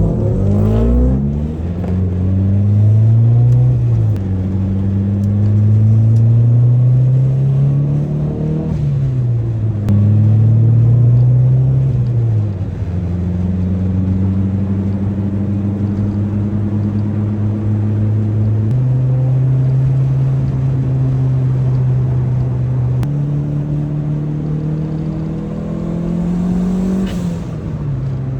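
Car engine pulling hard through the gears: its pitch climbs and drops back three times at the upshifts. It then settles to a steady cruise with a few small changes in pitch.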